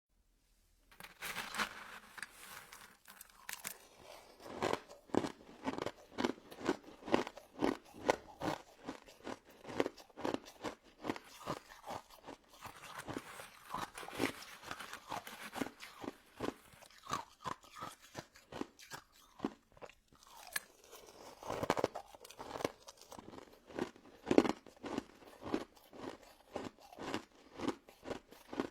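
A person biting and chewing crunchy crystal snow ice dessert: repeated crisp crunches, about two a second, beginning about a second in.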